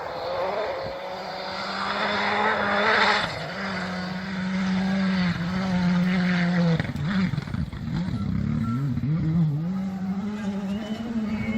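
Rally car engine running at high revs as the car approaches, growing louder. About seven seconds in the revs drop sharply and swing up and down for a few seconds, then climb back to a steady high pitch.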